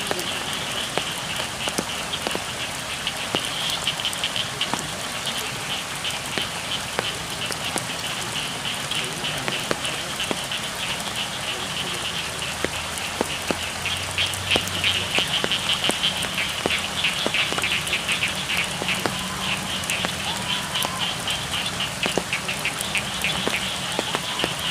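Steady rain falling on a rice field, with many scattered raindrop taps, under a chorus of frogs calling in fast, rapid pulses; the frog chorus grows louder a little past halfway.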